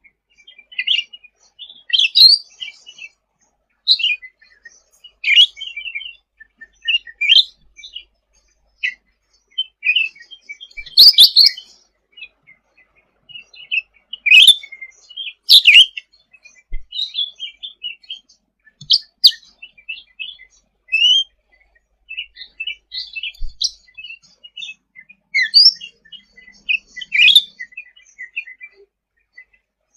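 Cucak ranting songbird singing actively, a busy string of short chirps and quick rising and falling whistled notes with hardly a pause. Several sharper, louder notes stand out around the middle.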